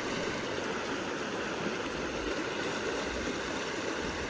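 Steady, even rushing noise without distinct tones or clicks.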